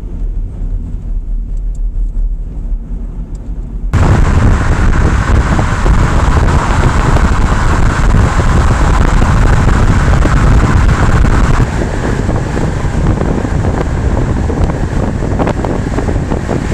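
A car driving on the road: low road rumble inside the moving car, then about four seconds in a sudden, much louder rush of wind and road noise that carries on, easing slightly later.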